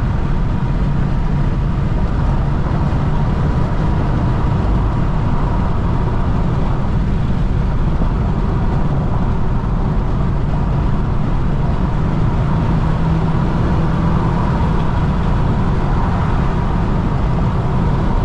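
Steady cabin noise of a BMW M340i cruising with the windows up: low drone of its B58 turbocharged inline-six mixed with tyre and road noise, with no clear rev change.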